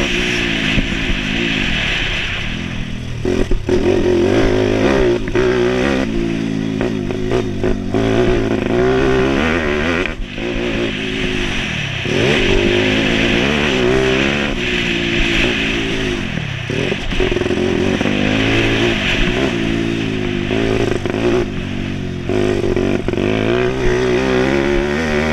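YX140 single-cylinder four-stroke pit bike engine being ridden hard, its pitch rising under throttle and dropping off again over and over through gear changes and throttle lifts.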